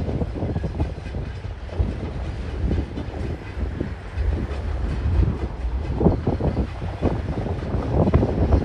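Empty freight flat wagons rolling past: a steady low rumble with irregular wheel clatter and knocks from the wagons, heavier in the last few seconds.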